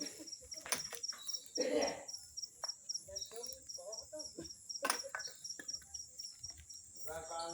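Crickets chirping in a steady, rapid, evenly pulsed rhythm. Over it come scattered sharp pops and clicks, typical of a crackling bonfire, and a brief louder rushing noise about two seconds in. Faint voices sound in the background near the end.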